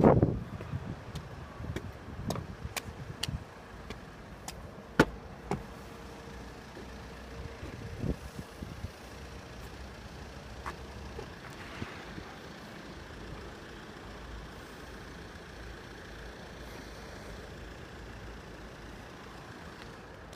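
Road traffic: a motor vehicle passes close by at the start, then a few sharp knocks over a steady background hum.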